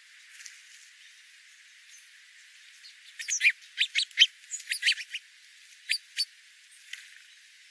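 A wild songbird chirping: a quick run of sharp, high chirps about three seconds in, lasting about two seconds, then two more single notes.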